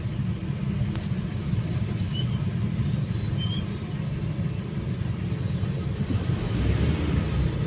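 Steady low rumble of a vehicle on the move: engine and road noise, with a few faint short squeaks.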